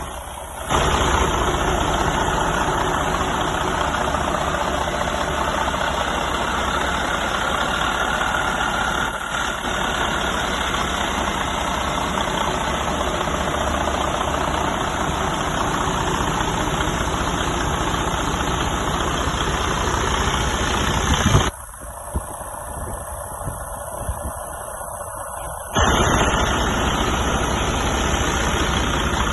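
Detroit DD15 14.8-litre diesel engine running steadily at idle. About three-quarters of the way through, the sound drops for about four seconds to a quieter, muffled version, then returns at full level.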